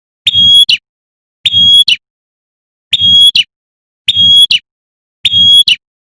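Prinia (prenjak) giving its sharp "tembakan" call, which the uploader labels a female calling a male, repeated five times at an even pace about every second and a bit. Each call is a short, high, steady whistle with a sharp click at its start and end.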